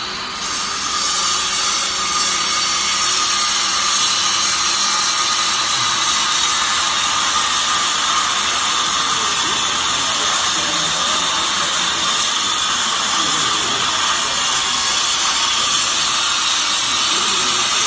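A machine running steadily: a loud, even hiss with a constant high whine.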